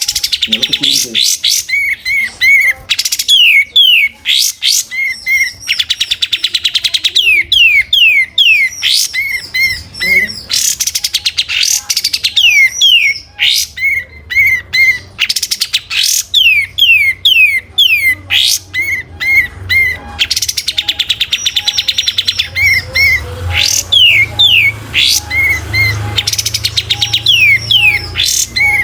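Kapas tembak songbird singing continuously and loudly: runs of short repeated chirps, quick falling whistled notes and bursts of harsh rattling trills, with no pauses.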